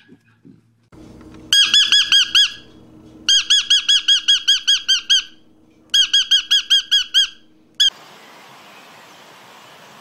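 Blue-headed parrot calling: three rapid runs of shrill, rise-and-fall squawking notes, about seven a second, with one last single note.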